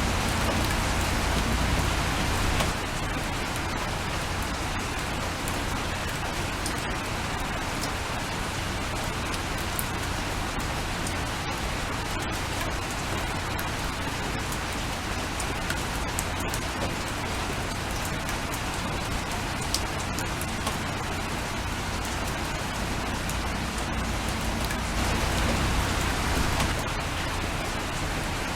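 Steady rain falling, an even hiss with scattered fine drop ticks, swelling a little louder for the first couple of seconds and again near the end.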